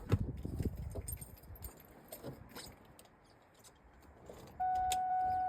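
Car keys jangling with small clicks, then a steady electronic beep from the car lasting about a second near the end, just before a cold start.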